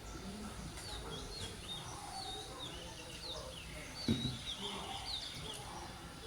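A bird chirping over and over in quick short notes that drop in pitch, with a single dull knock about four seconds in.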